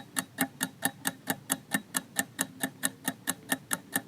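Clock-ticking countdown timer sound effect, an even ticking at about four to five ticks a second, counting down the time to answer a quiz question.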